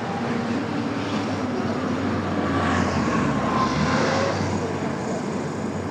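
A heavy engine runs steadily, getting a little louder around the middle.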